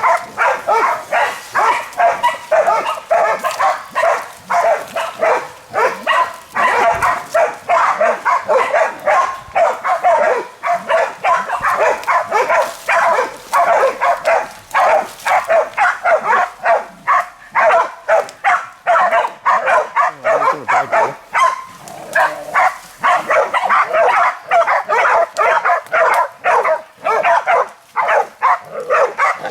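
Pig-hunting bailing dogs barking without a break, several barks a second: the dogs holding a boar at bay.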